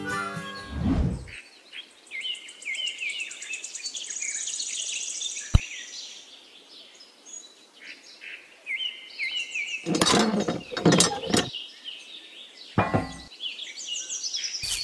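Birds chirping and twittering in short repeated calls, with a few short scuffing noises about ten seconds in and again near the end.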